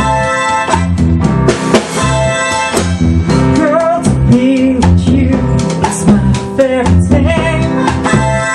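Band music: guitar and drum kit playing over a steady beat, with a sliding melody line in the middle.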